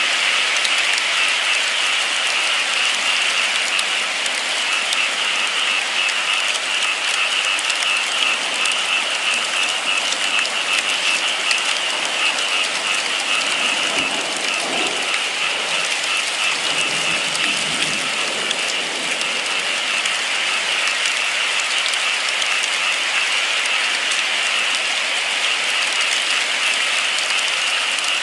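Steady rain falling, an even dense patter.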